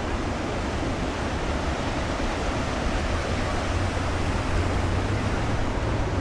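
Ocean surf washing steadily on the beach, with a low rumble of wind on the microphone.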